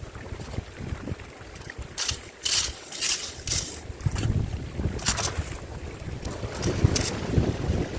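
Strong gusty wind buffeting the microphone, with several short hissing bursts of water splashing in a garden stream, a cluster of them a couple of seconds in and more near the end.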